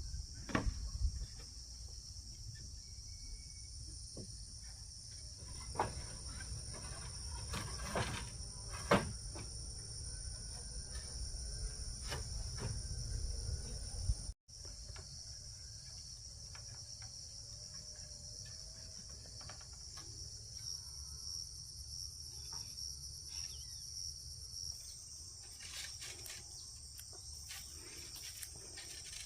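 A steady, high-pitched insect chorus buzzing without pause, with scattered light knocks and clicks over it.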